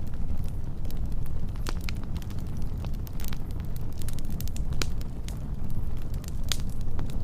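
Wood fire burning with a steady low roar and frequent sharp, irregular crackles and pops.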